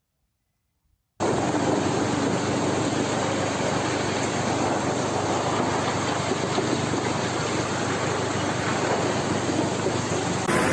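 Rushing floodwater: a steady, loud rush of swollen river water that starts abruptly about a second in and holds even throughout.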